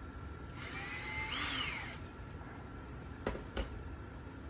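A scraping slide of about a second and a half, metal or hard plastic rubbing, with a thin squeal that rises and then falls in pitch. It is followed by two sharp clicks a moment later.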